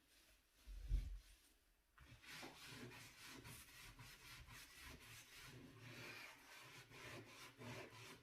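Scrubbing a dirty stovetop or oven surface with a brush or pad: a soft low bump about a second in, then quick repeated rubbing strokes from about two seconds in.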